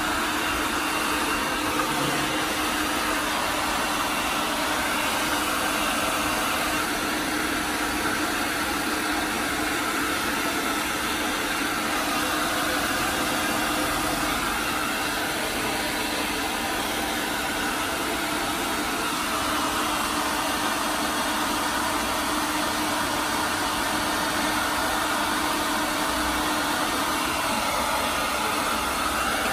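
Steady motor noise of electric grooming equipment: a constant hiss with a low steady hum, unchanging throughout.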